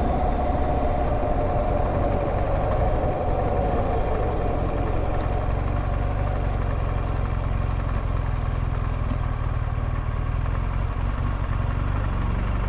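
BMW R1200GSA's flat-twin boxer engine slowing down, its note falling over the first few seconds, then idling steadily.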